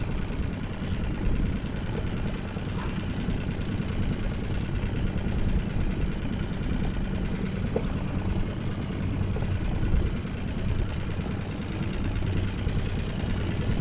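Small boat's engine idling steadily with a low hum.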